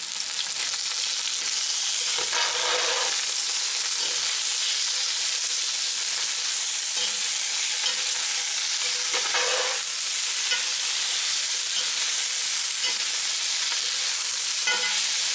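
Meat and onions sizzling in hot oil in a cast-iron Dutch oven, a steady high hiss, while they are stirred and sautéed with a spoon that scrapes against the pot a few times.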